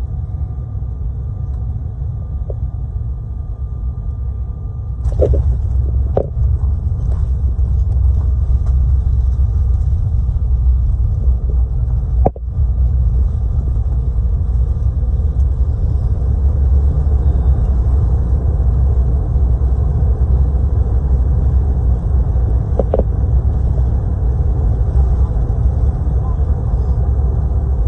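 Airliner cabin noise: a steady low rumble that grows louder and fuller about five seconds in, with a few short knocks and rattles scattered through it.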